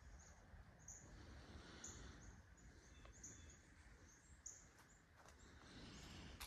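Near silence with a faint low rumble, broken by many short, high chirps of a small bird.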